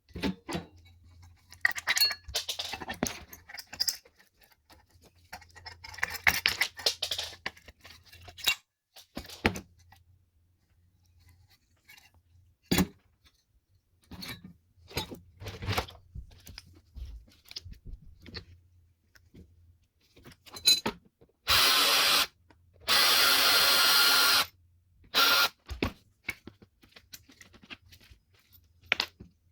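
Metal parts of a microwave oven being handled and knocked while it is taken apart, with scattered clinks and taps. Near the end a hand-held power tool runs in three short bursts, the last one brief.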